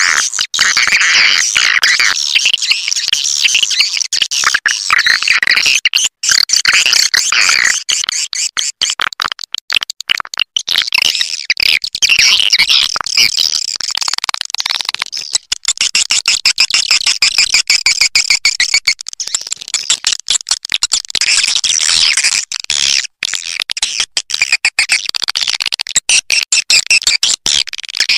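Recorded swiftlet calls: a dense, continuous chatter of rapid high chirps and twitters from edible-nest swiftlets. This is a lure call track of the kind played to draw swiftlets into a nesting house.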